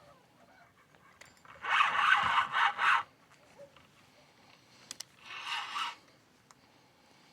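Two scraping rubs, a longer louder one and, a few seconds later, a shorter softer one.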